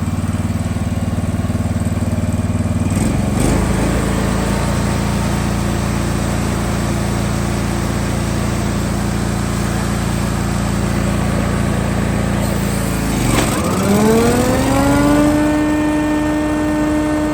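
Gas engine of a snow-clearing machine running steadily, with a brief dip about three seconds in. Near the end it drops, then speeds up with a rising whine and settles at a higher, steady pitch.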